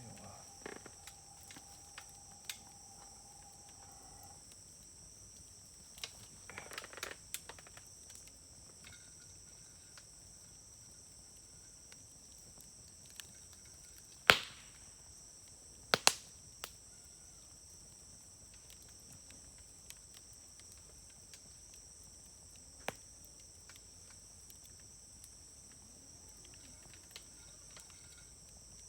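Wood fire burning in a fire grill, crackling sparsely, with two loud pops a couple of seconds apart about halfway through. Insects trill steadily and high-pitched in the background.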